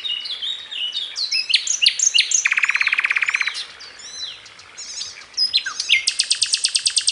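A bird calling a quick string of varied falling whistles and chirps, broken about two and a half seconds in by a fast trill about a second long. About six seconds in it starts a longer, higher fast trill.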